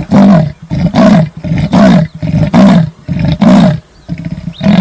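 Leopard calling with its sawing call: a rhythmic series of about five or six hoarse, rasping grunts, a little under a second apart.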